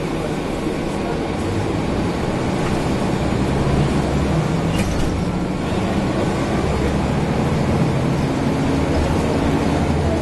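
Mercedes-Benz O405N city bus under way, its engine running together with the air conditioning, the engine note rising and falling as it drives. A short click about halfway through.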